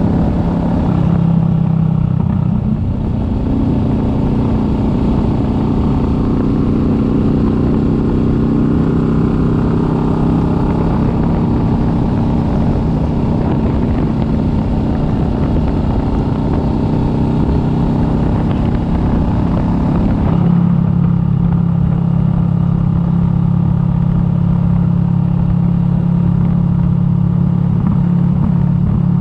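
Kawasaki Vulcan S 650's parallel-twin engine running steadily on the move, with road and wind noise. About 20 seconds in, the engine note drops lower and the higher hiss eases off.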